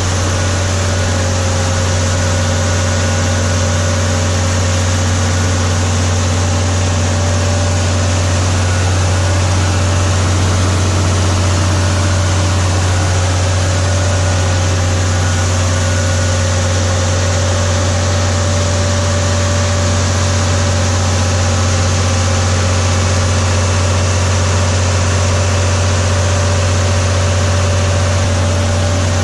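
A vehicle engine idling steadily, a constant low hum with no change in engine speed.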